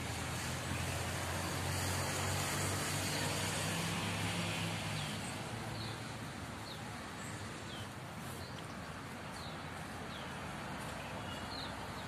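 Small birds in the trees giving short, high, falling chirps, about one a second from roughly five seconds in, over a steady outdoor hiss. For the first five seconds a vehicle engine's low hum passes underneath.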